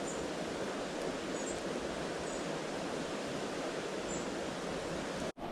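Steady rushing of river water, with a few faint, sharp crackles from a campfire's bed of coals. The sound cuts out for an instant near the end.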